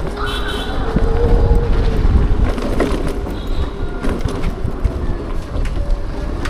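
Riding a Bajaj Chetak electric scooter: wind buffeting the microphone and road noise, with a faint steady whine running under it. Two brief high-pitched squeaks, about half a second in and again about three and a half seconds in.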